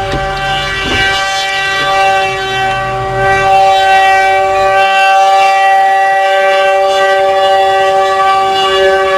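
Locomotive air horn sounding a long, steady multi-note chord as the snow plow train approaches a road crossing. A low rumble underneath fades out about five seconds in.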